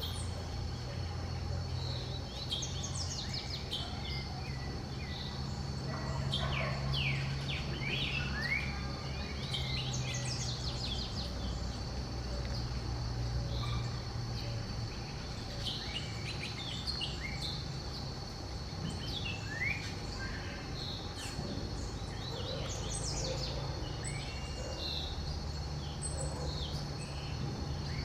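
Several wild birds chirping and calling, many short quick notes overlapping, over a steady high insect-like drone and a low background rumble.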